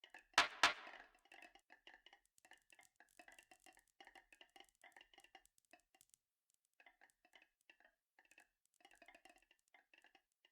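Marbles rolling down a marble-run track, clicking and clattering in quick, irregular taps, with two sharp clacks about half a second in.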